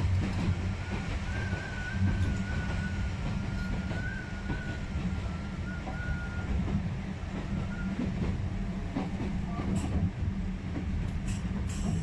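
Narrow-gauge electric commuter train running, heard from inside the driver's cab: a steady low rumble of wheels and motors, a thin wavering whine for several seconds early on, and a few sharp clicks from the track near the end.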